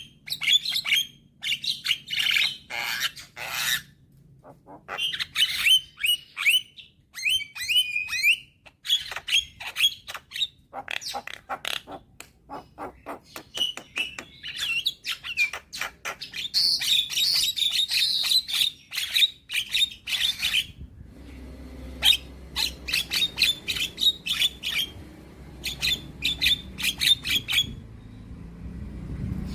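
Young Javan myna singing a busy, varied song of rapid clicks, rattles and short whistled notes in quick bursts with brief pauses. A low hum sits underneath in the last third.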